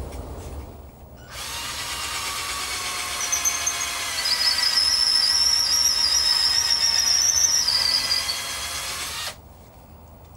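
Electric drill running for about eight seconds, enlarging (wallowing out) a hole. A high squeal rides over it through the middle stretch, and it stops suddenly near the end.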